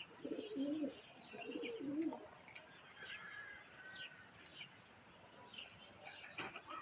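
Domestic pigeons cooing, two low phrases in the first two seconds, with small birds chirping high and briefly throughout.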